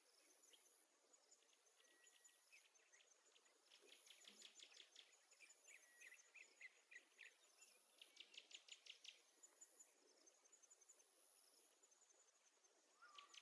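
Near silence, with faint trains of rapid, high-pitched animal chirping that come and go.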